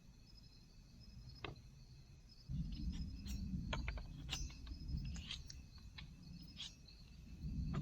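Insects chirping in repeated short trains of high pulses, with low rustling and handling noise and several sharp clicks and knocks from about two and a half seconds in.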